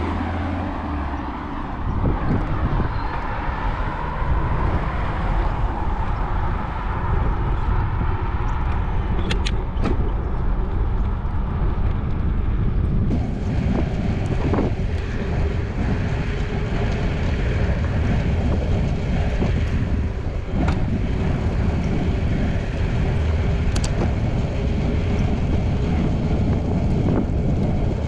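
Continuous low wind rumble on the microphone of a camera riding on a moving bicycle, mixed with road and traffic noise. A faint steady hum joins about halfway through.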